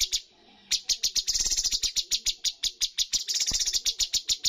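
Cucak cungkok singing: a loud, rapid string of sharp, high, clipped notes, about four or five a second, with quicker trilled runs about a second in and again past three seconds.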